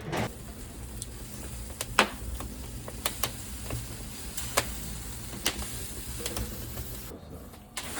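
Food sizzling, with scattered sharp pops and crackles over a low steady hum.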